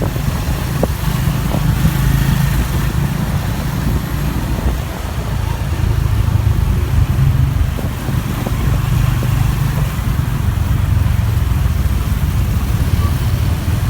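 Motorcycle engine running steadily with a low hum, together with the noise of the surrounding road traffic.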